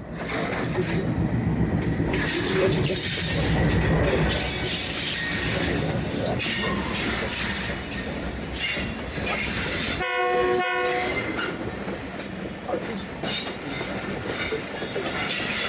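Khushhal Khan Khattak Express passenger train rolling into a station, its wheels rumbling and squealing on the rails. A short horn blast sounds about ten seconds in.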